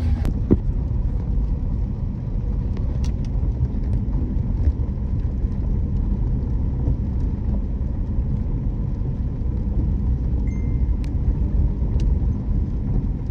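Motorcycle riding along at speed: steady low rumble of engine and wind noise on the microphone.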